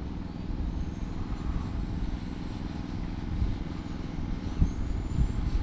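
Electric 1/10 scale RC touring cars with 25.5-turn motors racing, their faint high motor whines rising and falling as they pass, over a steady low rumble.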